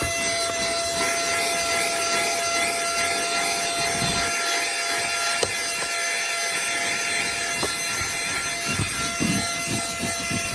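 Cordless handheld car vacuum (Temu HL-107) running with a steady high whine and hiss, its nozzle rubbing over a surface in short strokes, with one sharp click about five seconds in.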